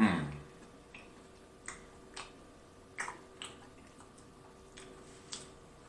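Close-miked chewing of a mouthful of supreme pizza with the mouth closed: wet clicks and smacks every half second to second. The loudest sound is a short falling 'mm'-like sound from the mouth right at the start.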